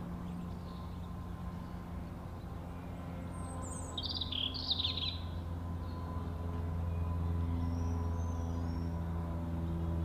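Short high bird calls: a quick chirp, then two sharp calls about four seconds in, with fainter high twitters around eight seconds. They sit over a steady low hum that swells toward the end.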